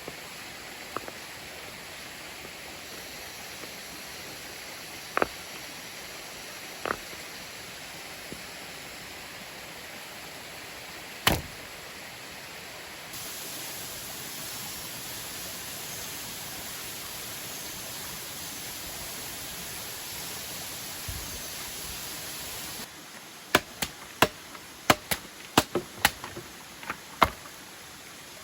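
Steady rushing of a nearby waterfall, with a few single sharp knocks. Near the end comes a quick run of about a dozen sharp knocks, like chopping.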